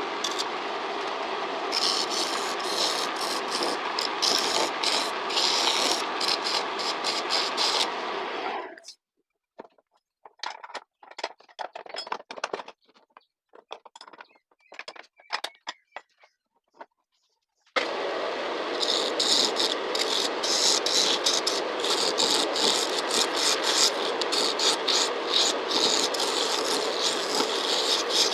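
Homemade wood lathe running while a turning tool cuts a log of green pruning wood: a steady motor-and-cutting noise with fast ticking of the tool on the wood. It stops abruptly about a third of the way in, leaving a stretch of scattered light clicks and knocks, then the lathe and cutting start again abruptly about two-thirds in.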